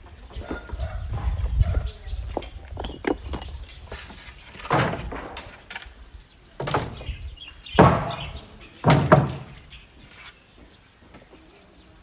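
A series of loud thuds and knocks a second or two apart, with a low rumble at the start.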